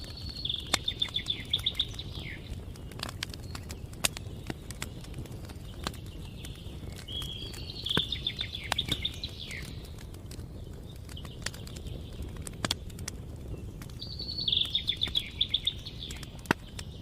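A songbird singing the same short, rapid trilled phrase three times, about seven seconds apart. A low rumble and scattered sharp clicks run underneath.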